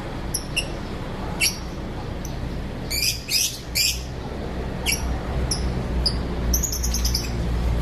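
Lovebirds in an aviary giving short, sharp high chirps and squeaks at irregular intervals, loudest in a quick run of three calls about three to four seconds in. A steady low rumble runs underneath.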